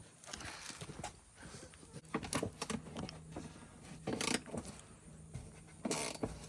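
Irregular metallic clinks and clicks of hand tools and parts being handled, a few louder clatters among softer scuffs.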